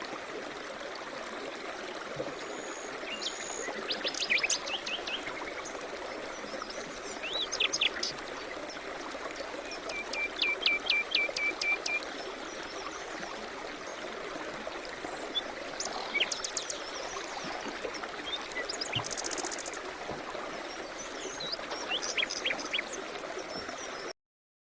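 Songbirds chirping and singing in short calls and trills over the steady rush of a flowing stream; the sound cuts off suddenly near the end.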